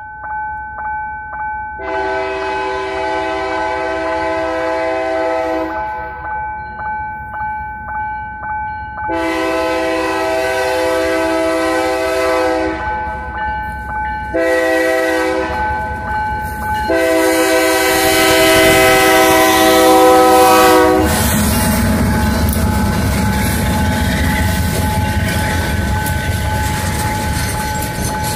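Freight locomotive's multi-note air horn sounding the level-crossing pattern: long, long, short, long. About two-thirds through, the train reaches the crossing and the locomotive and freight cars rumble past with wheels clicking over the rail joints. A steady pulsing electronic tone from the crossing warning signal runs underneath.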